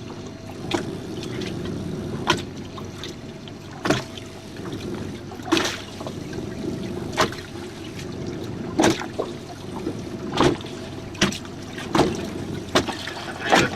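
Water slapping against the jon boat's hull in short sharp hits about every second and a half, over a steady low wash of water.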